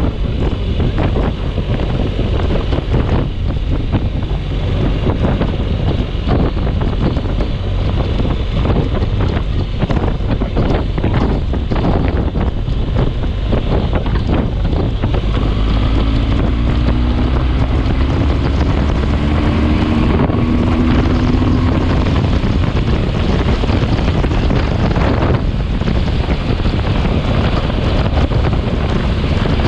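Storm wind gusting and buffeting the microphone, a loud, dense rumble. About halfway through, a faint drone holding a couple of steady pitches sounds for several seconds under the wind.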